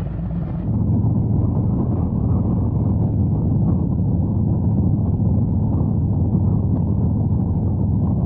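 Harley-Davidson Road Glide's V-twin engine running at road speed with wind buffeting the microphone. The sound gets louder less than a second in, then holds a steady low drone.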